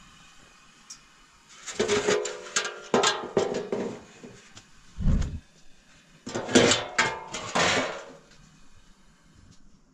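Clattering knocks of hard objects being handled, in two bursts with some ringing under them, and a dull thump in between.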